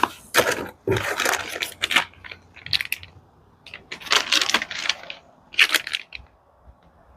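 Crinkling and rattling of plastic packaging as small parts are handled and unpacked. There are about six separate short bursts with quiet gaps between them, and the last second is quiet.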